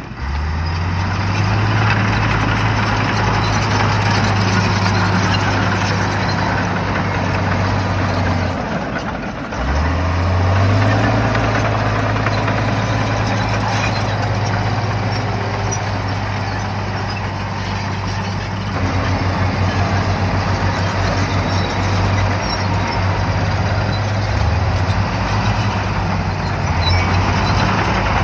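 Shantui bulldozer's diesel engine working under load, revving up about a second in and again about ten seconds in, with a steady hum and clatter above it.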